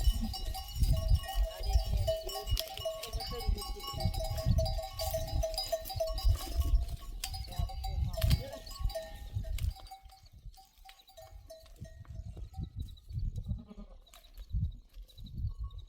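A flock of sheep bleating, many overlapping calls, over dull low thuds. It quietens after about ten seconds, with a few scattered calls near the end.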